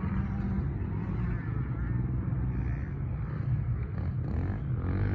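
Yamaha PW50's small single-cylinder two-stroke engine running as the mini motocross bike rides the track, under a steady low rumble.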